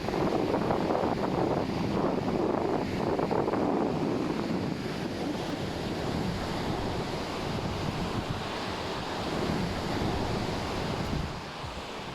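Ocean surf washing onto a sandy beach, a steady rushing wash of waves with wind buffeting the microphone. It is loudest in the first few seconds and fades down near the end.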